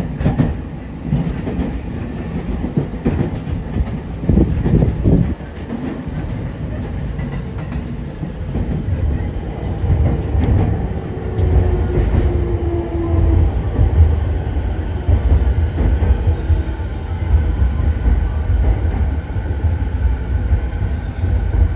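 Rinkai Line 70-000 series commuter train running, heard from inside the passenger car: a steady low rumble of wheels on rail with clicks of the rail joints, heavier in the second half, and a short whine about halfway through.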